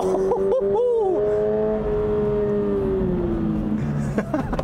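2022 Toyota GR86's 2.4-litre boxer flat-four, heard from inside the cabin on a track lap. It holds a steady high-rev note, then falls away in pitch through the second half as the revs drop, ending on a lower note.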